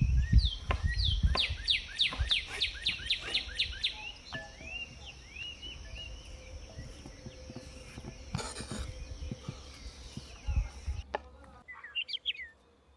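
A songbird singing a quick run of falling chirps, about three a second, then slower arched calls. Under it runs a steady high-pitched insect buzz that cuts off suddenly near the end. A few low thumps sound at the start.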